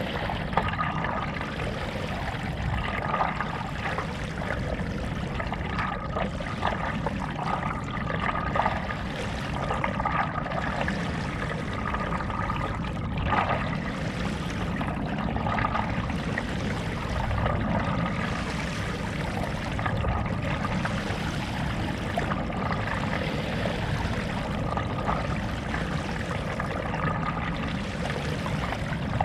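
Stand-up paddleboard paddle dipping and pulling through lake water, with steady splashing and trickling of water.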